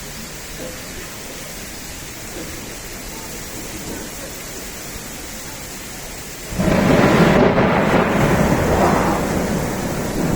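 Thunderstorm: steady rain, then a sudden loud clap of thunder about two-thirds of the way through that rumbles on for a few seconds and slowly fades.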